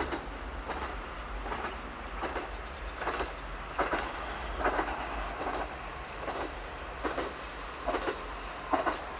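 Single-car diesel railcar running along a rural line, a steady low rumble with short clacks repeating about every 0.8 seconds.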